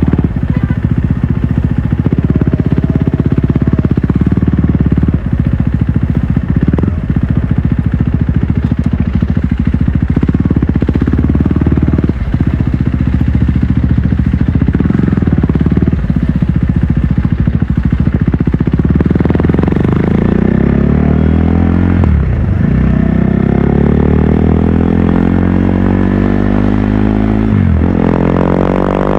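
Stage II tuned KTM RC 390 single-cylinder engine running under way, holding a steady speed with a few brief throttle dips. About two-thirds through it accelerates hard, its pitch climbing through the revs, with two quick upshifts.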